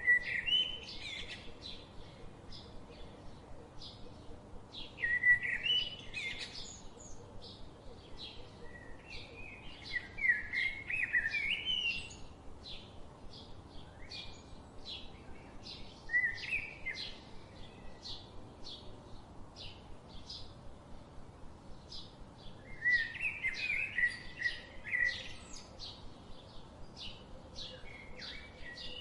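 Birdsong: a steady string of short high chirps, about two a second, with louder warbling phrases breaking in every few seconds.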